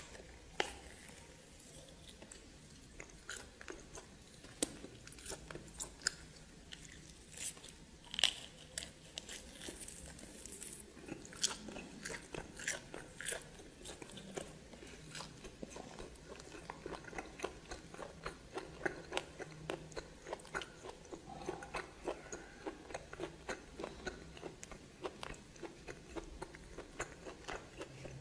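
A person biting and chewing steamed snake close to the microphone: sharp, irregular mouth clicks and smacks that come more often from about eleven seconds in.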